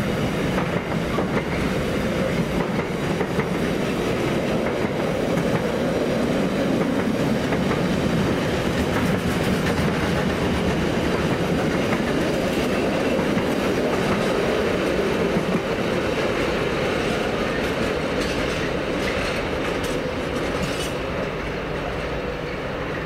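Container freight train's wagons rolling past, a steady rumble of wheels on rail that eases a little near the end as the last wagons go by.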